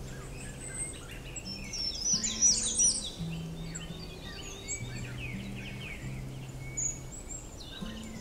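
Songbirds singing in a forest, with a loud run of quick falling whistled notes about two seconds in. Soft background music of held low notes plays underneath.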